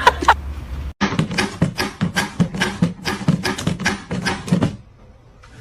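A quick, irregular run of light taps or knocks, about five a second, starting about a second in and stopping shortly before the end.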